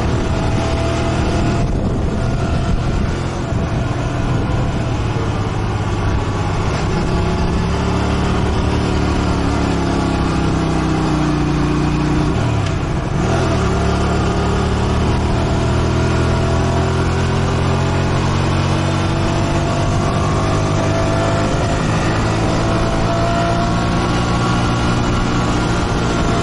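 Motorcycle engine running as it is ridden. Its pitch falls off toward the middle, breaks briefly about halfway through, then climbs again and holds as the bike speeds back up.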